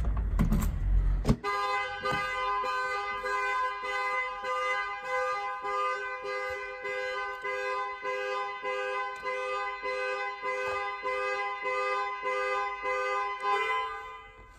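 Mercedes-Benz GL's anti-theft alarm going off: its twin horns honk in a rapid steady on-off pattern, about two honks a second, for some twelve seconds before stopping. Just before the honking, a low rumble cuts off abruptly about a second in.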